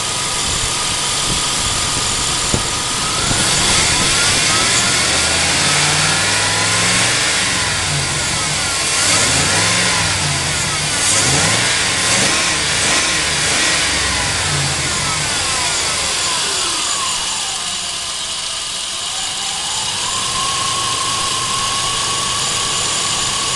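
Chevrolet 4.8 L "LR4" V8 (294 ci) idling, then revved up and down several times before settling back to a steady idle. Any tapping heard comes from the tablet used to record it; the valves are not tapping.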